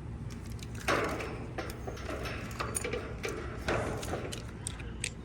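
Irregular metal clicks, scrapes and rattles from hand tools and parts being handled, over a steady low hum.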